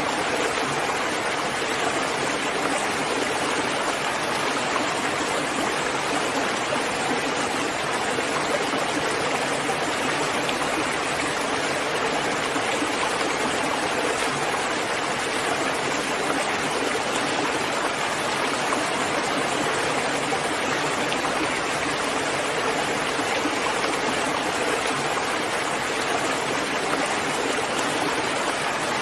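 Steady rain falling, a dense, even hiss of water with no separate drops or thunder standing out.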